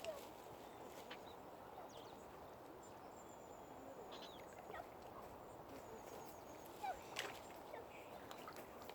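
Faint, scattered short bird calls, a few seconds apart, over a quiet steady outdoor background hiss.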